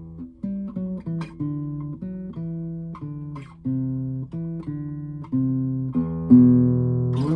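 Instrumental music: a guitar picking a melody of single notes, one after another, then a louder chord about six seconds in that rings on.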